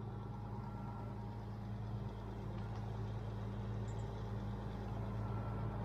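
Crane's diesel engine running steadily while its cable is taken up.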